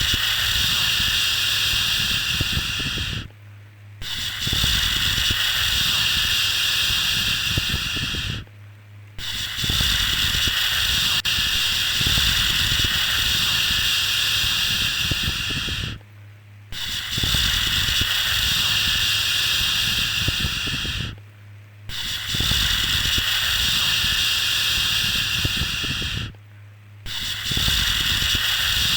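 Long 'shhh' shushing sounds for soothing a baby, each held for about four to seven seconds, with a short break of under a second between them, six in all.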